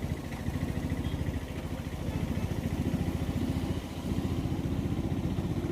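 A vehicle engine running with a steady, rapid beat, heard from on board while riding. It eases briefly a little before four seconds in, then picks up again.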